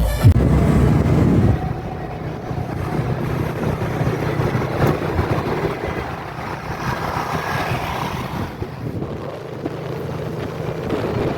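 Steady low hum of a passenger ship's engines heard on board, with wind blowing across the microphone.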